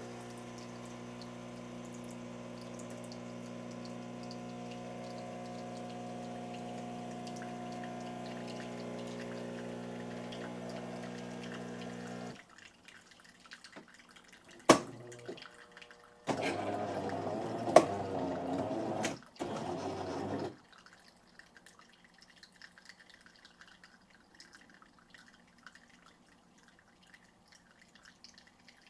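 Jura C9 automatic coffee machine running an espresso cycle: a steady machine hum for about twelve seconds, then a sharp click and two shorter, louder bursts of mechanical noise. Faint dripping follows as the espresso finishes.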